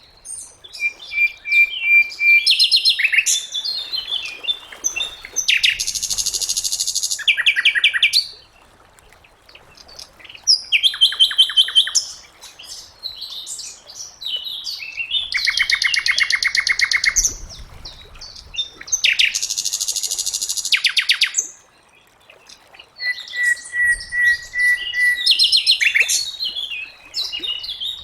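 Sikatan londo, a flycatcher, singing a varied song of rapid trills, buzzy phrases and short level whistles, repeated phrase after phrase with brief pauses between them.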